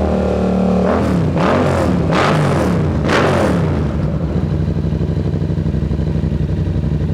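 Yamaha MT-07's parallel-twin engine through a Black Widow exhaust with the baffle removed, revved: held steady at first, then several quick throttle blips rising and falling in pitch, before it drops back to a lumpy, pulsing idle.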